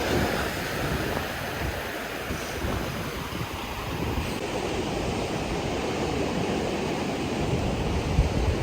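Ocean surf washing onto a beach, with wind buffeting the microphone in gusts.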